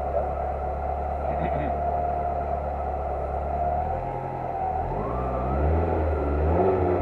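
Lancia Delta Integrale Group A rally car's turbocharged four-cylinder engine idling steadily, then revved in short rising blips from about four seconds in, heard from inside the car.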